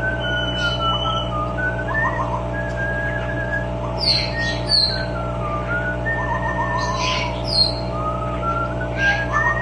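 Amazon parrot whistling a tune: a string of held whistled notes that step and glide up and down, with a couple of short warbled runs. Short harsh squawks break in about four seconds in and again about seven seconds in.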